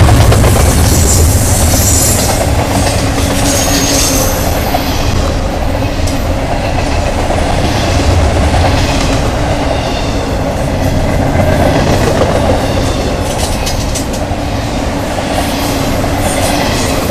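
Double-stack intermodal freight cars rolling past close by: a steady rumble and clatter of steel wheels on the rails, heaviest at the start.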